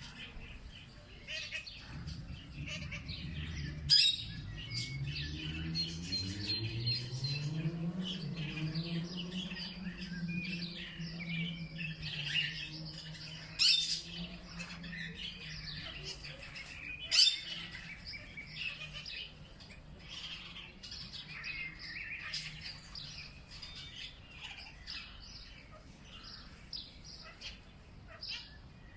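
A chorus of many birds chirping and calling. Under it, a low hum rises in pitch over several seconds, holds steady, then fades away about halfway through. Three sharp clicks stand out above the chorus.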